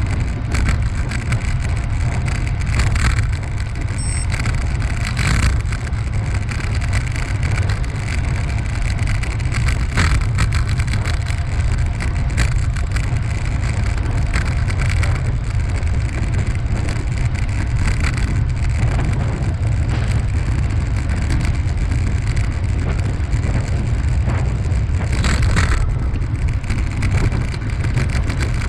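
Steady low rumble of wind buffeting the microphone along with rolling noise from a bicycle ride, with a few brief clicks or rattles.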